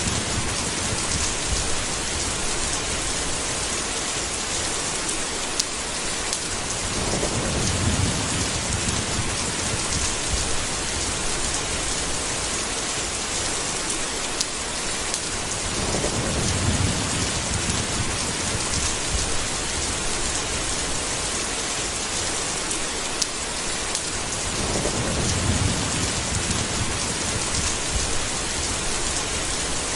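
Steady heavy rain hissing, with a low roll of thunder swelling and fading about every eight or nine seconds.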